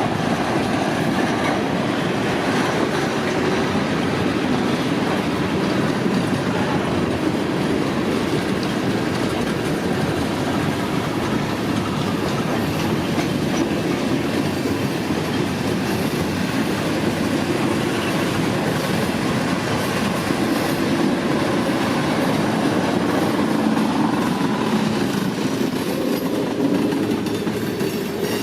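Freight cars of a CSX manifest train rolling past, with a steady rumble of steel wheels on rail.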